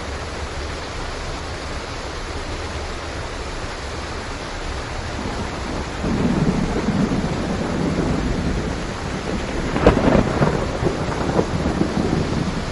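Steady rain with thunder: a low rumble builds about six seconds in, and a sharper clap of thunder breaks about ten seconds in, trailing off in crackling rumbles.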